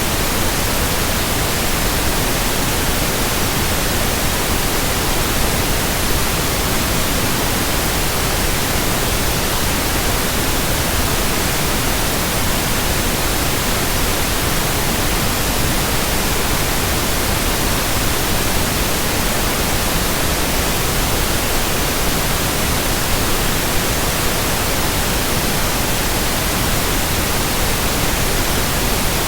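Steady, unchanging white noise: an even hiss across all pitches, with no rhythm, hum or swoosh in it.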